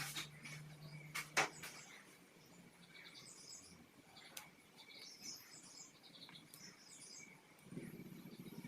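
Faint bird chirps and twitters coming in several short bursts, with a sharp click a little over a second in.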